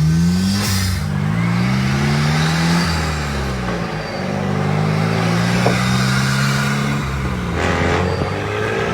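Turbocharged engine of a Vuhl 05 sports car under way, revving up through the gears. The pitch climbs twice, drops when the driver lifts off, holds steady for a few seconds, then climbs again near the end. A brief rushing noise comes at about a second in and again near the end, as the revs fall away.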